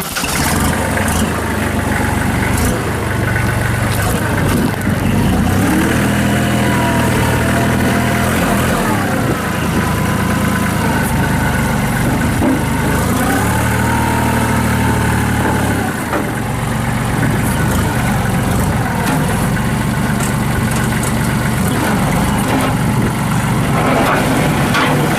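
Kubota L39 tractor's diesel engine coming on at the very start and running, its speed rising and falling, with a higher whine gliding up and down through the middle.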